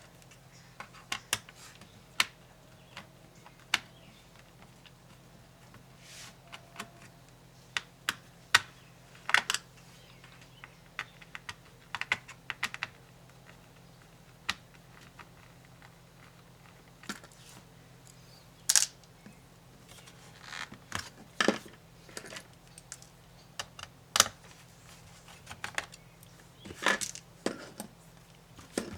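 Irregular small clicks and taps of plastic and metal laptop parts being handled during disassembly of an HP ProBook 450 G5, some in quick clusters, a few sharper knocks standing out.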